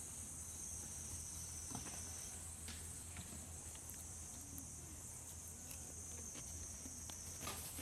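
Steady high-pitched chorus of insects, with a few faint clicks and knocks.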